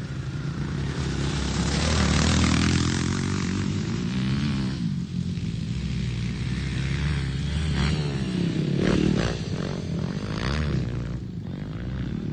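Dirt bike engines revving on a motocross track, their pitch rising and falling as the bikes pass; loudest about two seconds in, with more revving near the end.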